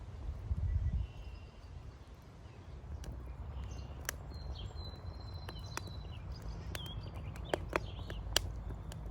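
Wood fire in a rocket stove: a steady low rumble with sharp crackles and pops, several close together near the end, and faint bird chirps in the background.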